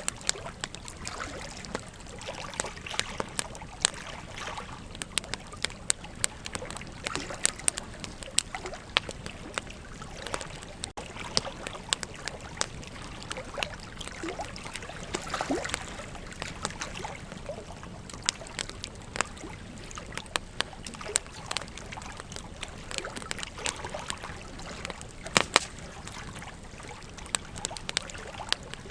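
Wood fire crackling, with frequent irregular pops and snaps and a louder pair of pops near the end, over a steady rush of flowing river water.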